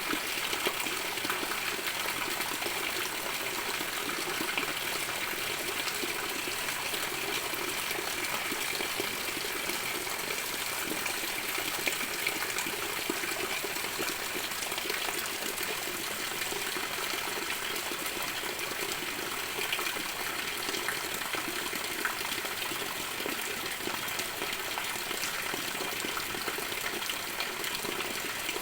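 Heavy rain falling steadily: a dense, even hiss of water made up of countless small drop impacts.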